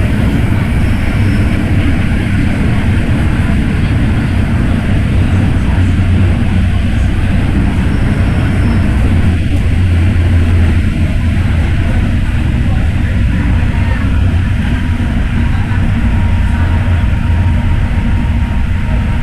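MTR M-Train electric multiple unit running at speed through a tunnel, heard from inside the car: a steady, loud, low rumble of wheels on rail and running gear.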